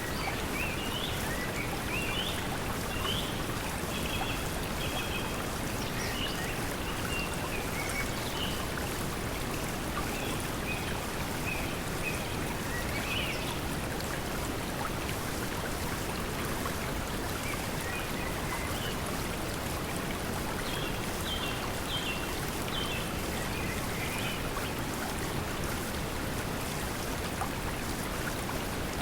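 Steady pink noise mixed with flowing stream water, with small birds chirping in short bursts every few seconds.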